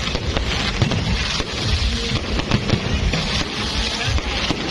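Fireworks going off in rapid succession: a dense, continuous crackle of many small bursts with low thumps underneath.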